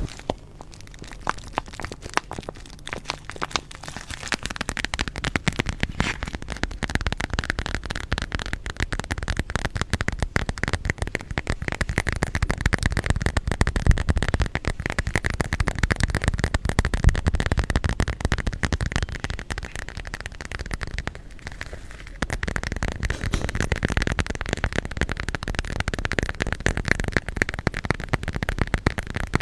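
Stones rubbed and ground against each other close to the microphone: a dense, continuous crackling scrape made of many rapid small clicks, easing off briefly a little after two-thirds of the way through.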